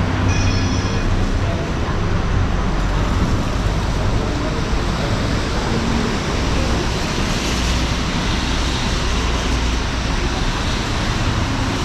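City street ambience: a steady traffic rumble with passing cars. A brief high ringing squeal comes about half a second in.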